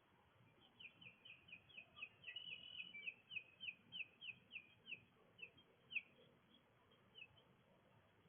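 A songbird singing a rapid series of short down-slurred whistled notes, about four or five a second, which slows toward the end and stops about six seconds in, with one last note a second later. The song is faint.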